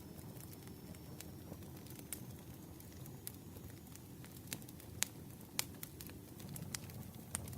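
Campfire crackling: a steady low rumble of burning with irregular sharp snaps and pops, a few louder ones in the second half.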